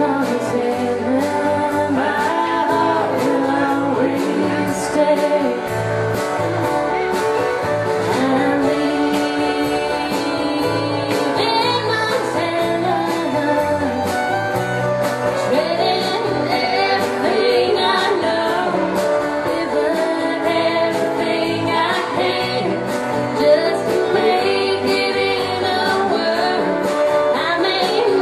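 Country band playing a song with singing over guitar and a steady drum beat.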